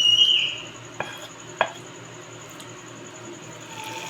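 A high-pitched cry that fades out about half a second in, then two sharp taps of a utensil on the paniyaram pan, the second about half a second after the first, over a faint steady background.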